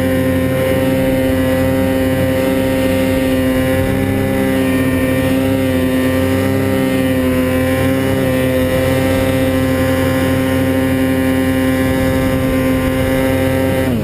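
Snowmobile engine running loud at steady, constant revs, its pitch holding level throughout.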